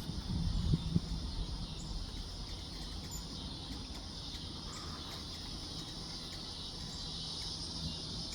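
Steady high-pitched insect chorus with a few faint, short bird chirps, and a low rumble in the first second.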